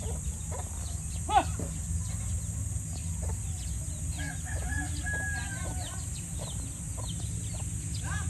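Chickens clucking in short calls, a sharp one about a second and a half in, with a longer drawn-out call about four seconds in, over a steady low rumble.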